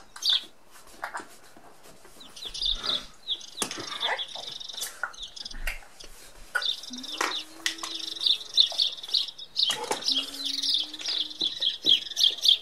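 A small bird chirps and twitters quickly and almost without pause. Soft rustling and tapping comes from plasticine being rolled on paper. A low steady hum-like tone sounds twice in the second half.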